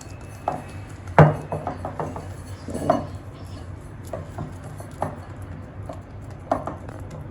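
Scattered light knocks and clinks of a mixing bowl and utensils being handled while a ball of dough is coated with oil, the sharpest knock a little over a second in.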